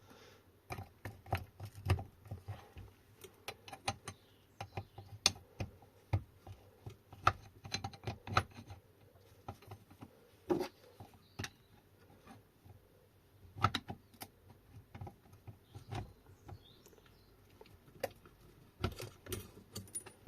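Irregular clicks and light taps of hand tools against metal motor parts, with a quick cluster of louder knocks near the end.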